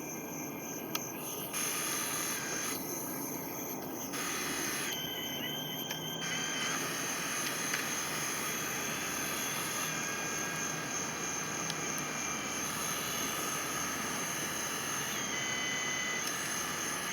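1/14 scale RC4WD hydraulic excavator running, its hydraulic pump giving a steady high whine over a hiss. The sound changes several times in the first few seconds as the machine works.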